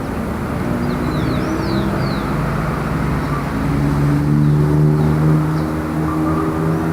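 Light city traffic: a vehicle engine accelerating close by, its pitch rising in steps and loudest about four to five seconds in, over a steady wash of road noise.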